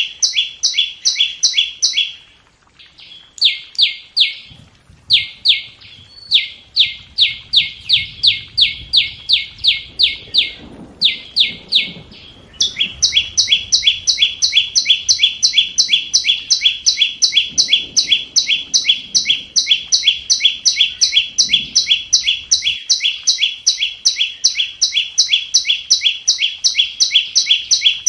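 Flowerpecker calling as a decoy: a long run of sharp, high, down-slurred chip notes, about three or four a second, with short breaks near the start and around the middle.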